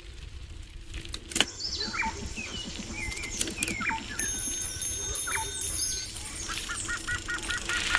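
Birds chirping: a scatter of short whistled calls that slide up and down, with a quick run of repeated notes near the end.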